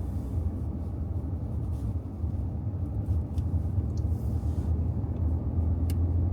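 Steady low rumble of a car being driven, engine and road noise with no sharp events.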